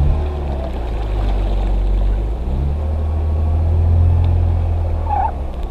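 Motor vehicle on the move: a steady low engine and road rumble that swells a little near the middle, with a brief squeak about five seconds in.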